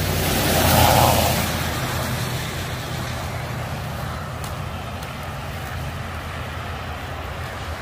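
Motor vehicle running: a steady low engine and road hum, with a louder rushing swell about a second in that fades away, like passing traffic.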